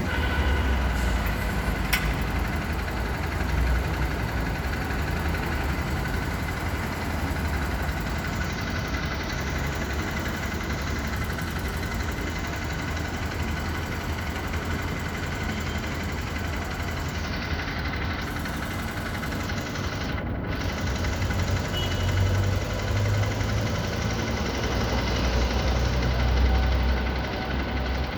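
Motorcycle engine idling steadily with a gas analyzer's probe in the exhaust, during the emissions reading. A faint steady high whine runs alongside.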